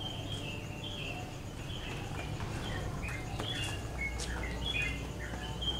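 Several small birds chirping, with many short high notes overlapping, over a steady low hum.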